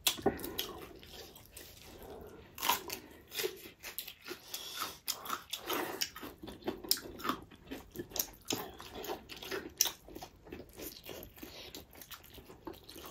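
Chewing and lip smacking of people eating spiced pork trotters and rice by hand: many short, irregular wet clicks and crunches.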